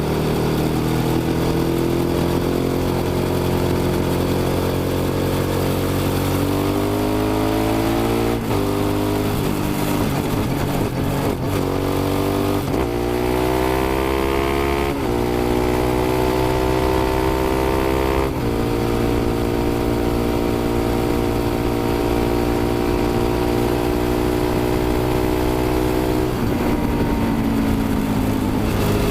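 Suzuki SV650's V-twin engine under a rider. It runs steadily, then accelerates through several gears, the pitch climbing and dropping sharply at each upshift. It then holds a steady cruise and eases off near the end.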